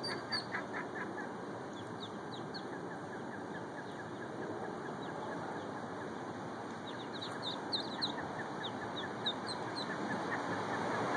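A brood of ducklings peeping: many short, high peeps, busiest in the first second and again from about seven to ten seconds in, over a steady background hiss.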